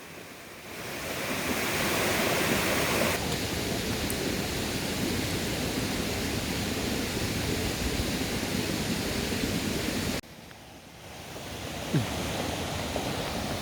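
Mountain stream water rushing over rocks, a steady hiss. It fades in, cuts off abruptly about ten seconds in, then fades back up.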